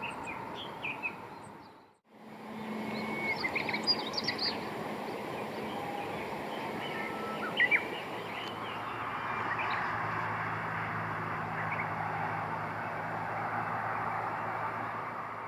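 Small birds chirping, with scattered short high calls over a steady outdoor background. The sound drops out briefly about two seconds in, and from about halfway a low steady hum joins the background.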